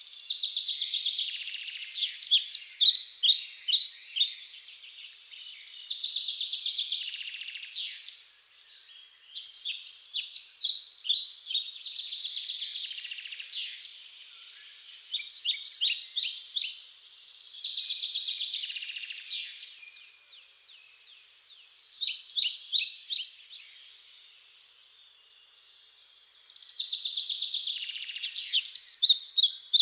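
Songbird singing, repeating the same high phrase about every four to five seconds: a buzzy trill that runs into a string of sharp, quick chirps.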